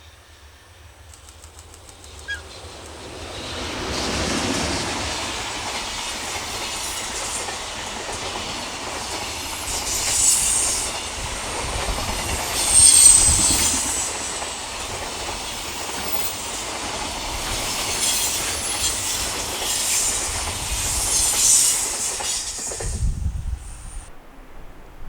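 Container freight train hauled by an EH500 electric locomotive passing at speed: the noise builds as the locomotive arrives about three seconds in, then a long run of wheels clattering over rail joints with high-pitched wheel squeal at times, cutting off near the end.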